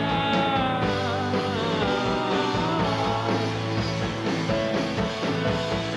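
Rock music: a band playing an instrumental passage with guitar over a steady bass line.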